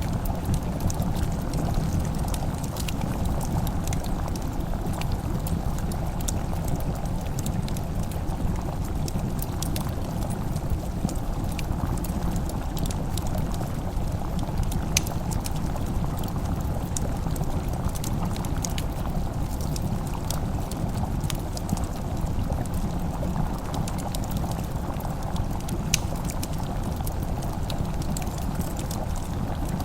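Wood fire crackling, with scattered sharp pops and clicks over a steady low rumble.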